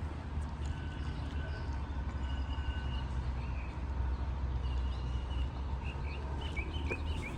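Outdoor ambience: a steady low rumble with small birds chirping, a quick run of chirps near the end.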